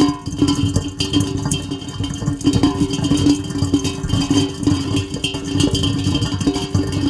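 Rain pattering densely and unevenly on a hard surface, with a steady low tone beneath it.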